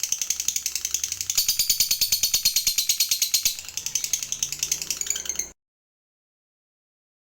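Lovebird giving a long 'ngekek' chatter: a rapid, high, rattling trill of evenly repeated notes that cuts off abruptly about five and a half seconds in.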